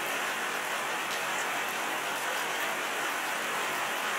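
Steady hiss of heavy rain, an even noise with no rhythm or distinct events.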